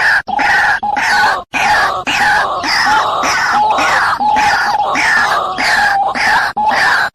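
White-breasted waterhen calling: a loud, harsh, rapidly repeated croaking series with only short breaks, the call used as a lure for trapping.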